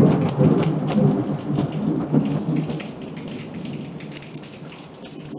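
Thunder rumbling and dying away over about three seconds, over heavy tropical rain pattering down with close drops ticking on surfaces.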